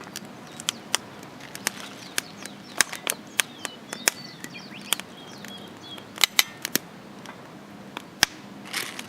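Wood campfire crackling, with irregular sharp pops and snaps, a few louder ones clustered about six seconds in. Birds chirp faintly in the background.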